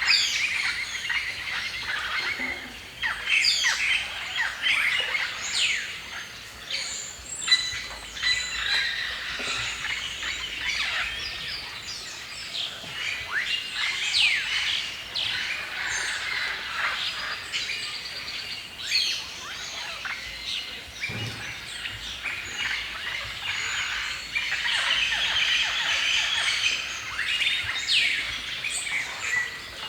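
Many songbirds singing and chirping at once in a forest dawn chorus, a dense mix of overlapping chirps, trills and quick sweeping whistles.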